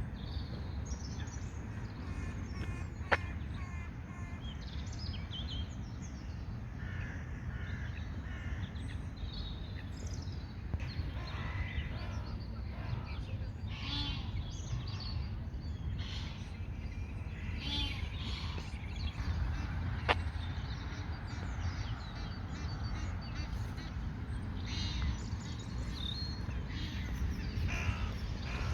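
Birds calling on and off over a steady low rumble of outdoor background noise. Two sharp clicks stand out, one a few seconds in and one about two-thirds of the way through.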